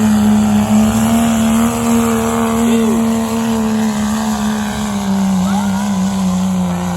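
Pulling vehicle's engine run wide open under load down the track, loud and steady, its pitch sagging slightly late on.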